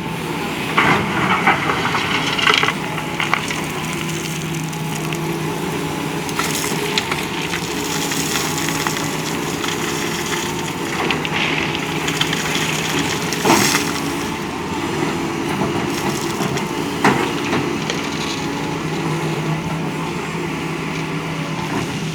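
Doosan DX225LCA excavator's diesel engine running steadily, with gravel crunching and clattering in bursts as the bucket digs and dumps it into a dump truck. The sharpest crashes come about a second in and again about two-thirds of the way through.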